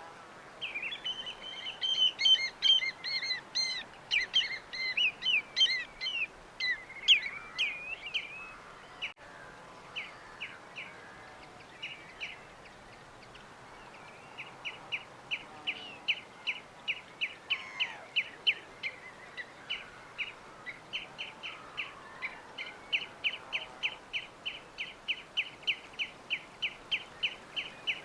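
Songbirds singing: a busy tangle of quick, varied notes for the first several seconds, then after a pause a fast, even series of short repeated chirps, about three a second, running to the end, over a faint steady hiss.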